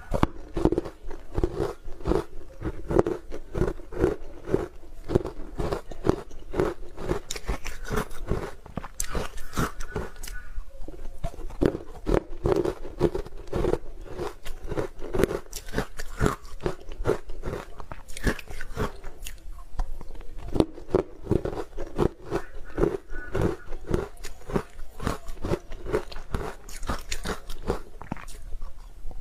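Hard-frozen matcha ice being bitten and chewed close to the microphone: dense, irregular crunching and cracking, bite after bite.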